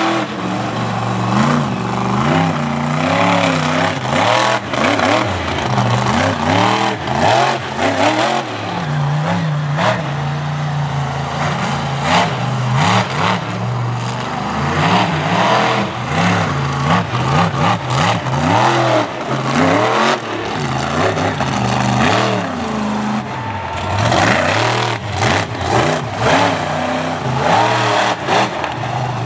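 Monster truck engine revving hard over and over, its pitch rising and falling with the throttle, mixed with frequent sharp bangs and knocks.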